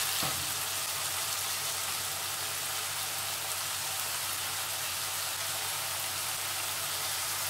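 Diced vegetables and chicken sizzling steadily in oil in a frying pan, left to sauté without stirring.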